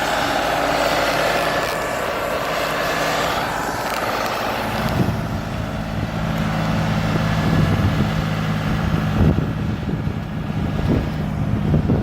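John Deere 5400 tractor's diesel engine running, its steady note growing louder about five seconds in, with a few knocks and clunks over it.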